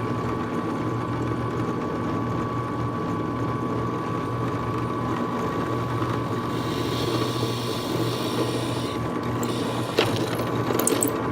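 An electric power tool motor runs steadily with a constant whine, cutting into the phenolic resin insert, with a hissier stretch of cutting about two-thirds of the way through and a couple of sharp clicks near the end.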